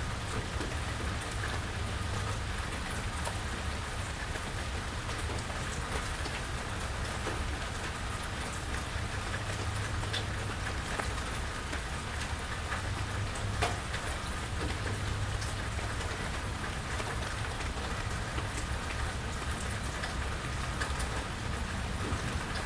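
Steady rain falling, a continuous hiss with scattered individual drops ticking on nearby surfaces and one sharper drop about halfway through. A low, steady rumble runs underneath.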